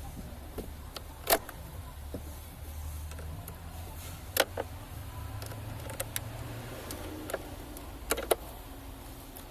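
Sharp clicks and knocks of hands and tools at work on a car, over a low steady hum. There are single knocks a second in and past four seconds, then two close together near the end.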